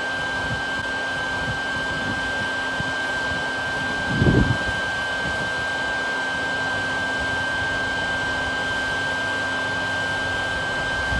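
Small motor running steadily with a constant high whine, like a vacuum or blower. There is a brief low rumble about four seconds in.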